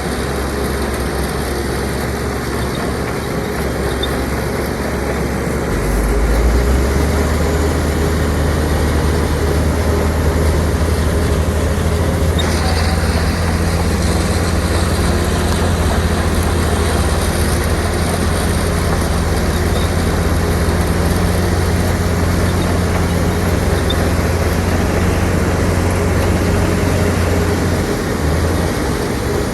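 Diesel engine of heavy earthmoving machinery running, stepping up to a higher, louder note about six seconds in and holding there under load, then easing back near the end.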